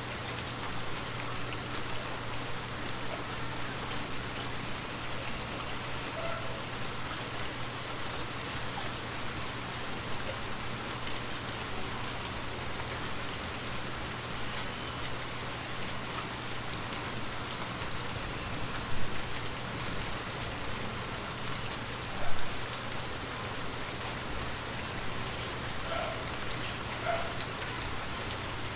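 Steady rain falling on a surface, an even hiss of many drops. Two louder taps stand out about two-thirds of the way through.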